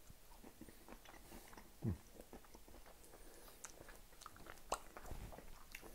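A person chewing a freshly cooked, peeled shrimp, with faint mouth clicks and a short low sound about two seconds in.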